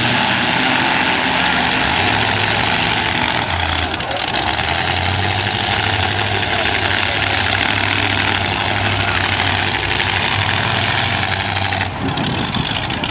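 Demolition derby car engines running together, loud and steady under a dense noisy wash.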